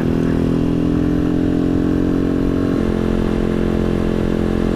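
Janus Halcyon 250 motorcycle's single-cylinder engine running at a steady speed under way, with a low road rumble beneath it. A little under three seconds in, its pitch drops a step as the revs fall.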